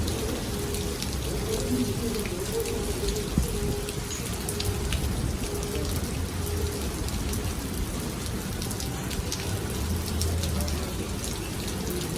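Heavy thunderstorm downpour: steady rain with many drops striking nearby surfaces.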